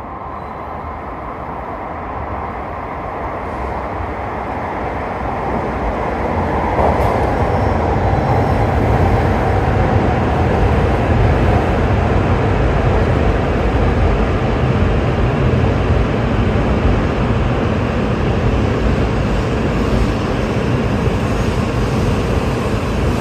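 Shinkansen train pulling into the station. Its rumble builds over the first several seconds, then holds steady and loud.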